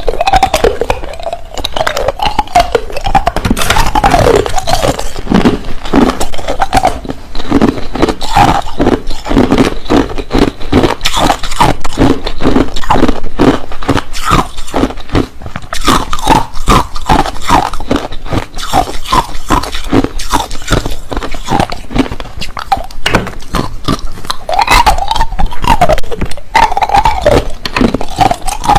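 Hard crushed ice being bitten and chewed close to the microphone: loud, rapid, continuous crunching. Short wavering pitched throat sounds come through at the start and again near the end.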